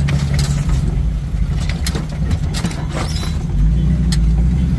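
A Jeep's engine running steadily at low speed, with scattered sharp clicks over it; the engine gets louder about three and a half seconds in.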